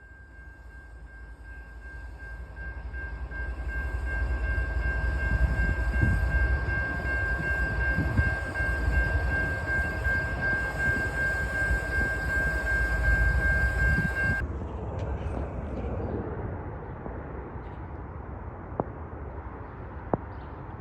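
A train rolling past close by: the low rumble of the wheels builds over a few seconds, with knocks from the rail joints. A steady high whine sits above it and stops suddenly about two-thirds of the way through, and two sharp clicks come near the end.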